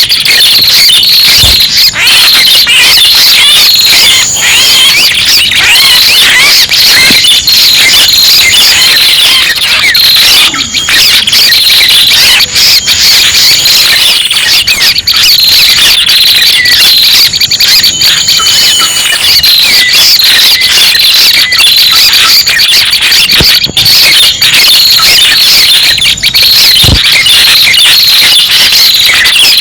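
Red-headed prenjak song played as a bird-trapping lure call: many rapid, high chirps overlapping in a dense, unbroken stream, very loud.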